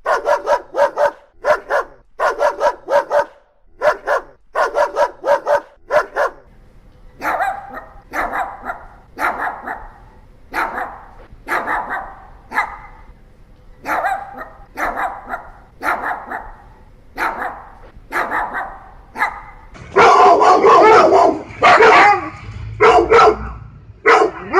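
Dogs barking, several different dogs in turn. For the first six seconds one dog gives quick clusters of sharp barks. Then a dog barks singly and steadily, about once a second. From about twenty seconds in comes loud, dense barking.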